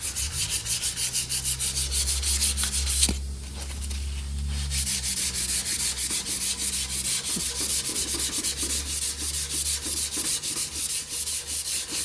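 Hand sanding of hardened body filler on a lawn mower's sheet-metal body: rapid back-and-forth strokes of sandpaper, about five a second, that stop a little after three seconds in and start again near five seconds in.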